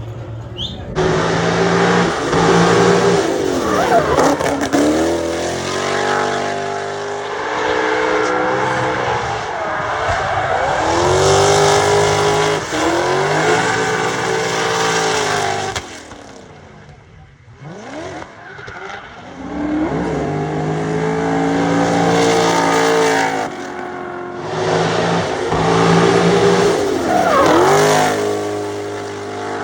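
BMW E39 M5's S62 4.9-litre V8 revving hard while drifting, its pitch rising and falling again and again over the squeal of sliding tyres. It gets loud about a second in, drops away for a few seconds around the middle, then comes back on full throttle.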